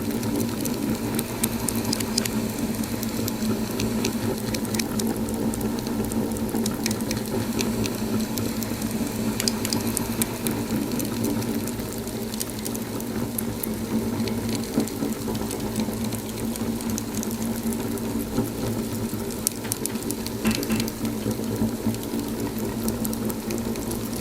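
Wood fire crackling in a fireplace: frequent small sharp pops and snaps over a steady low rushing.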